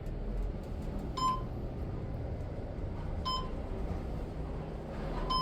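Schindler elevator car's floor-passing beep, three short beeps about two seconds apart as the car travels down, over the steady low hum of the ride.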